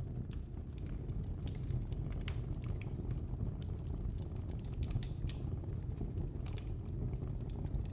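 Wood fire burning in a fireplace: a steady low rumble of flames with irregular sharp crackles and pops, coming thickest in the middle.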